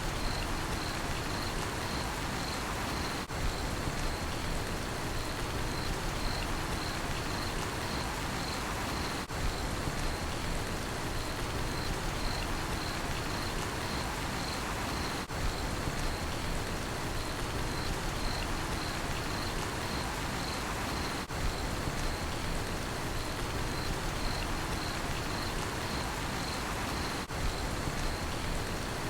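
Steady rain falling, with a cricket chirping throughout in a high, even train of short chirps.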